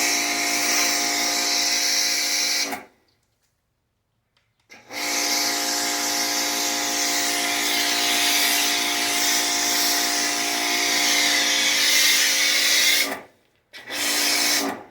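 Adams Pressure Washer 2.0's electric motor and pump running with a steady hum and spray hiss while the foam gun is triggered. It cuts off instantly when the trigger is let go, about three seconds in, and starts again two seconds later. It stops again near the end and restarts briefly.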